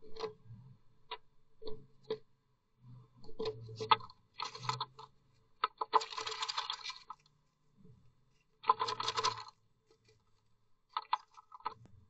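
Blue tit moving about inside a wooden nest box: its claws tap and scratch on the wooden walls and floor in a series of sharp clicks. Longer rustling bursts come about six seconds in and again near nine seconds as it flutters its wings in the box.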